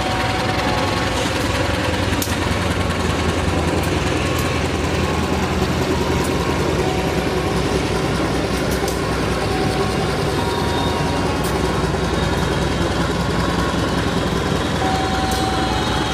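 Passenger train coaches rolling slowly past behind a diesel locomotive, with a steady engine rumble from the power car's generator. Occasional short thin squeals and sharp clicks come from the wheels on the rails.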